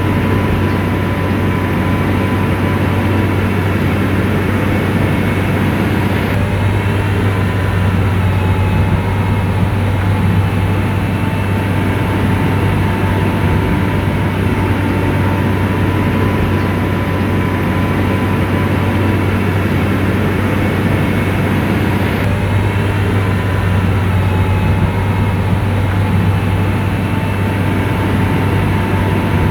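SDLG motor grader's diesel engine running steadily, a constant low drone.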